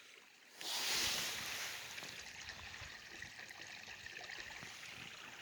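Shallow running water of a small creek trickling, a steady rushing hiss that comes in about half a second in, is loudest just after, then settles to a softer steady trickle.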